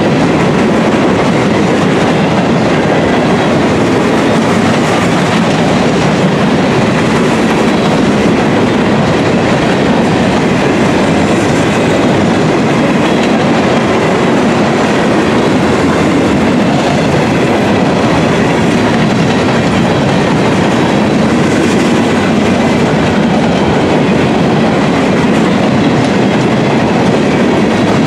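Steel gondola freight cars rolling past at steady speed: a loud, even clatter of wheels on the rails that holds constant throughout.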